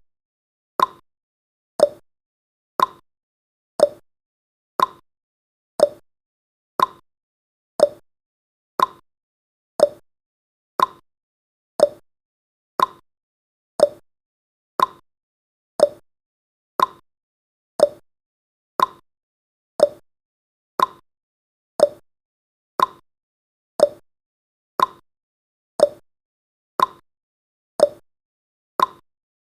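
Countdown timer's tick sound effect: one short, crisp tick every second, evenly spaced, marking the seconds as the timer runs down.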